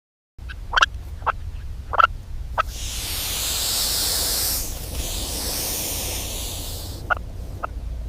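A bird giving short, sharp calls, four in the first three seconds and three more near the end. Between them a loud, high hiss lasts about four seconds, over a low rumble.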